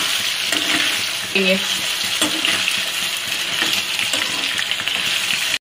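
Potato chunks frying in hot oil in a pan, sizzling steadily, while a metal slotted spoon stirs and turns them.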